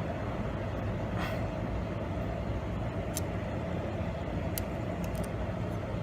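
A steady low background hum and rumble, with a few light, sharp clicks from hand-tightening and positioning the adjuster nut on a clutch cable end.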